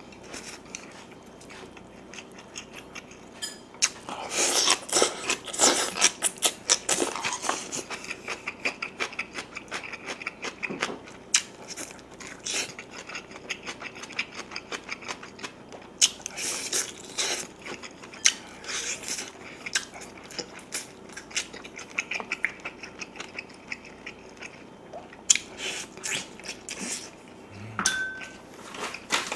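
Chewing and eating soy-braised pork back ribs, gnawing meat off the bone: dense runs of small clicking mouth sounds, heaviest about four to eight seconds in and again around sixteen to eighteen seconds in.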